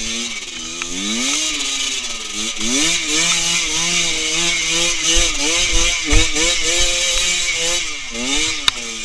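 Small modified underbone motorcycle engine revving up and down repeatedly as it is ridden along an off-road trail, with a dense hiss throughout and a few low thumps about five to six seconds in.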